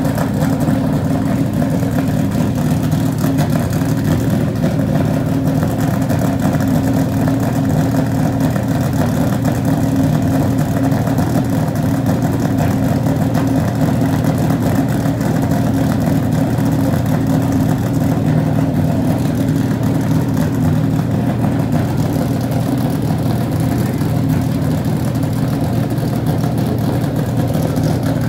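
NASCAR stock car's V8 engine idling steadily as it warms up.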